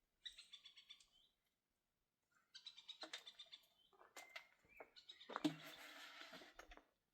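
A small bird chirping in two short, rapid, high trills. Then comes a rustling scrape with a sharp knock about five seconds in.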